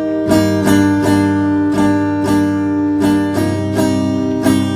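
Acoustic guitar strummed in a steady rhythm, about three strokes a second, with a chord change a little past the middle.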